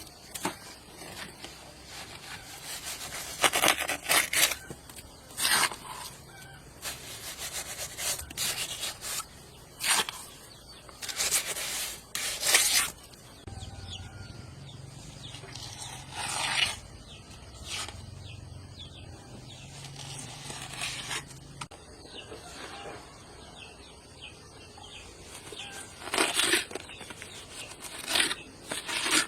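Chickens clucking around a farmyard, mixed with irregular short scraping and knocking noises. A low hum sounds for several seconds in the middle.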